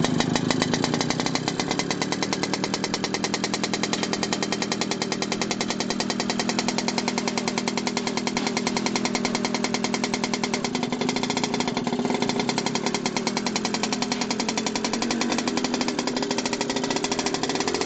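DT-54 crawler tractor's four-cylinder diesel engine running steadily with a rapid, even pulsing beat.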